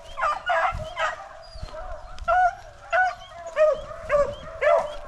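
Beagles baying while running a rabbit's scent trail: a steady string of short, pitched barks coming one to two a second.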